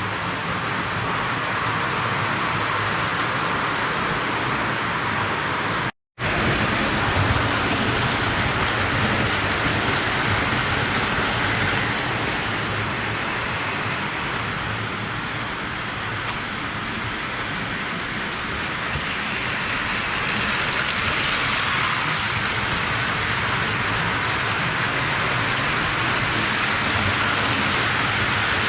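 Postwar Lionel O gauge toy steam locomotives running on three-rail track: a steady clatter and rumble of metal wheels on the rails. The sound drops out for a split second about six seconds in.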